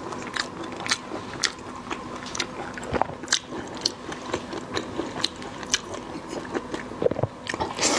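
Close-miked mukbang eating sounds: a person chewing food, with sharp crunching clicks about twice a second.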